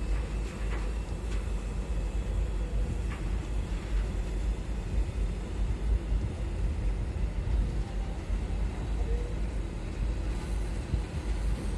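Steady low rumble of wind buffeting the microphone mixed with boat engine noise, with a few faint ticks.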